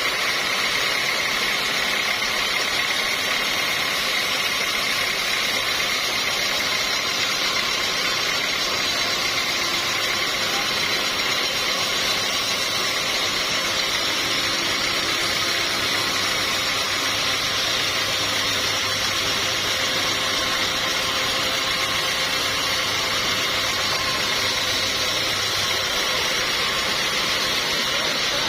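Sawmill machinery running steadily: an even mechanical drone with a steady high tone through it.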